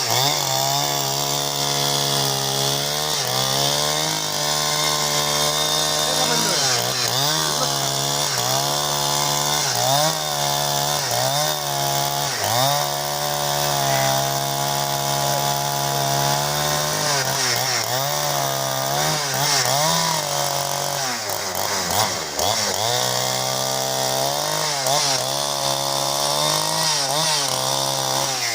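Two-stroke chainsaw running under load, cutting timber into battens. Its engine note sags and recovers again and again as the chain bites into the wood.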